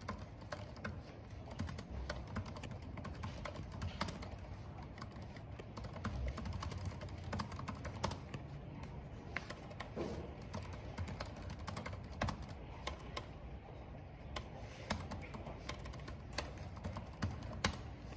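Typing on a computer keyboard: a steady run of irregular keystrokes, over a low, steady rumble of wind and rain.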